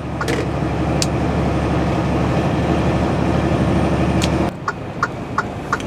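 Tractor-trailer's diesel engine pulling steadily, heard from inside the cab. About four and a half seconds in, the engine note drops away suddenly as the throttle comes off, and the turn signal starts clicking about three times a second.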